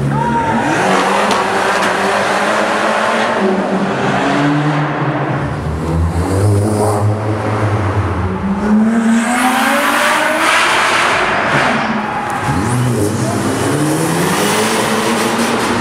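Small petrol cars, among them a Fiat 500 Abarth and a Grande Punto Abarth, accelerating hard one after another through a concrete tunnel. Each engine note climbs in pitch as the car pulls away, and there are several such pulls, with a lower steady engine note in between.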